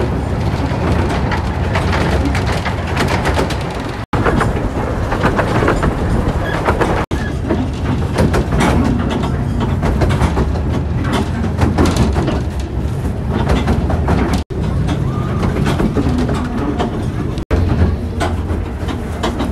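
Miniature steam railway coaches rolling along the track: a steady low rumble with many small clicks of wheels on rail. The sound is broken by four abrupt cuts.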